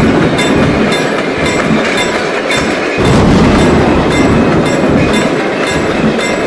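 A train passing close by: a heavy rumble with the wheels clacking over rail joints in repeated clusters, swelling again about halfway through.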